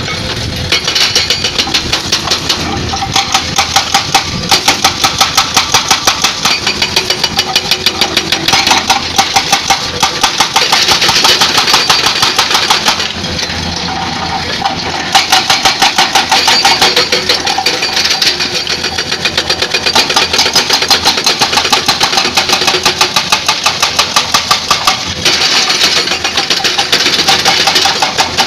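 Excavator-mounted hydraulic breaker hammering rock in rapid, evenly spaced blows, several a second. It runs in long stretches with short pauses, over the excavator's diesel engine running.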